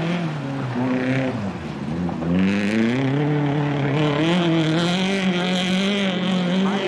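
Rally car engine at full throttle: the revs fall about a second and a half in, then climb steeply as the car accelerates and stay high, with a wavering note.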